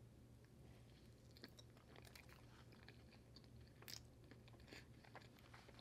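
Faint chewing of a mouthful of red velvet cupcake, with scattered small wet mouth clicks; the loudest click comes about four seconds in as a frosted fingertip is licked.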